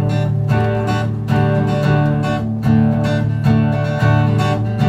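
Acoustic guitar strummed in a steady rhythm, a chord stroke about every half second, in an instrumental break of a live country song.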